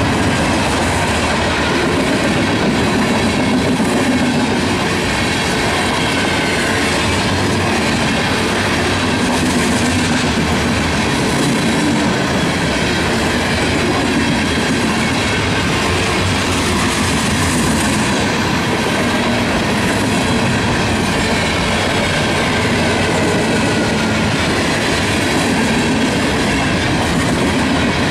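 Freight cars of a mixed train rolling past steadily: a continuous, even noise of steel wheels on rail from hopper cars, gondolas and tank cars.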